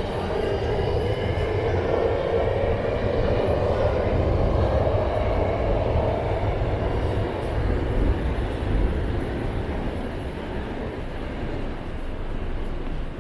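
A train passing with a steady rumble, with faint high whining tones in the first few seconds, easing off in the last few seconds.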